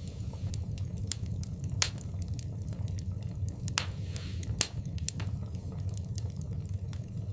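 Fire in a fireplace crackling, with irregular sharp pops over a low steady rumble, and a brief hiss about four seconds in.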